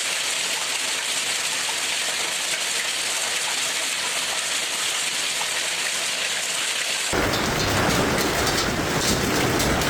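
A heavy storm downpour with a steady, hissing patter. About seven seconds in, the sound changes abruptly to a louder, fuller rush with a deep rumble.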